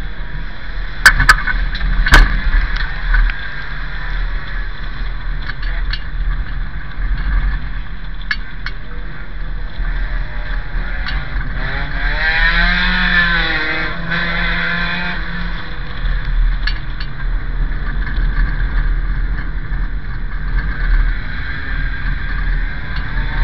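A banger racing car's engine running hard, heard from inside its stripped cabin. A few sharp knocks come about one and two seconds in, and the engine note rises and falls again about halfway through.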